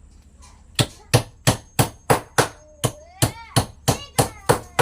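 A hammer striking wood in a steady series of about thirteen sharp blows, roughly three a second.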